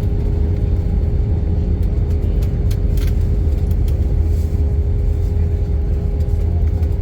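Steady cabin noise of an Airbus A320 on the ground after landing: a low rumble from the idling jet engines and rolling wheels, with a steady hum tone running through it. A few faint clicks come about two and a half to three seconds in.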